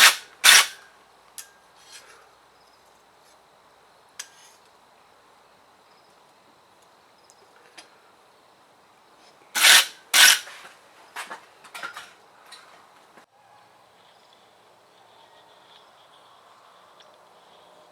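Sharp metal-on-metal strikes: one at the start, two loud ones close together about ten seconds in, then a few lighter clinks.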